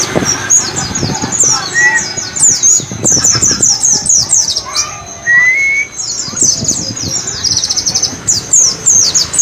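White-eye (pleci) song: a fast, continuous run of short, high, downward-slurred notes, breaking into a rapid trill near the end.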